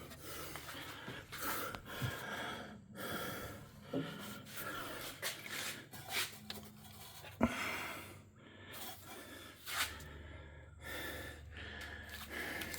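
Faint rustling and handling noise with a few light sharp knocks, the clearest about two seconds in and about seven and a half seconds in.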